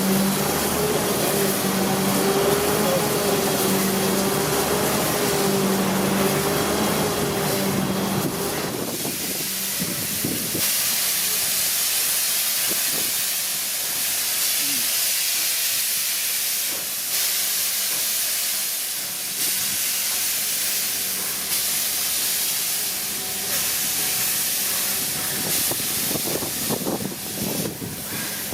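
A steam train rolls with a regular beat and a wavering tone for the first several seconds. Then, from about nine seconds in, a loud steady hiss of escaping steam comes from Victorian R class 4-6-4 Hudson locomotive No 766, with scattered knocks beneath it.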